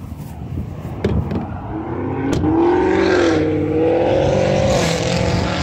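A hot rod car driving past and revving its engine. It gets louder over the first two seconds or so, and the engine pitch wavers up and down.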